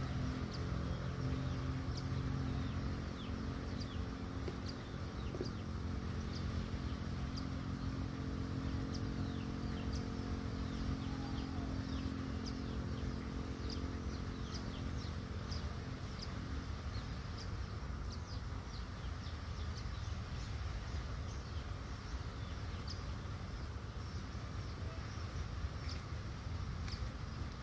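Small birds chirping in quick, short notes over and over. Under them runs a low steady hum that fades out about halfway through.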